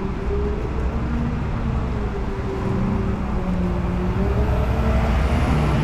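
Street traffic noise: a motor vehicle's engine hum that slowly rises and falls in pitch, over a steady wash of road noise.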